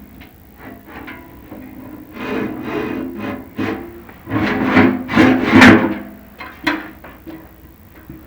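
Chimney inspection camera and its cable knocking and scraping inside the flue, the flue ringing with a few steady low tones after the knocks; the loudest cluster comes midway, about two to six seconds in.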